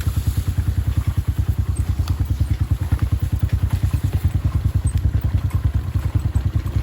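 Motorcycle engine running with a steady, even low pulsing of about ten beats a second.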